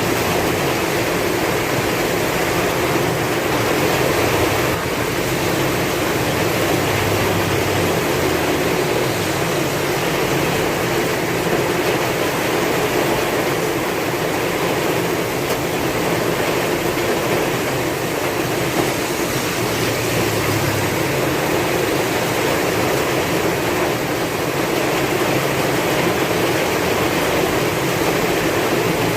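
Heavy rain with strong wind: a steady, dense wash of noise that holds at one level throughout.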